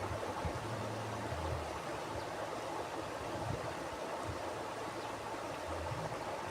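Mountain river water flowing over rocks: a steady, even rushing, with a low rumble underneath.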